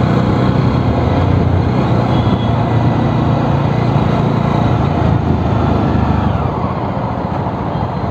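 Jawa 42 motorcycle's single-cylinder engine running steadily while the bike rides through traffic. Near the end the engine note falls and eases off.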